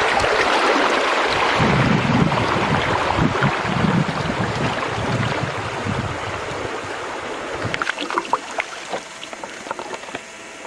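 Rushing water around a canoe, fading over several seconds, then scattered drips and small splashes near the end.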